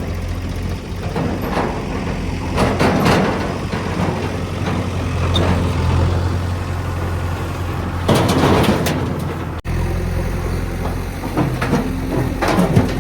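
Diesel engine of a backhoe loader running steadily under work, with loud rushing, scraping bursts about two and a half seconds in and again around eight seconds in. The sound cuts out for an instant near the end of the second burst, then the engine carries on.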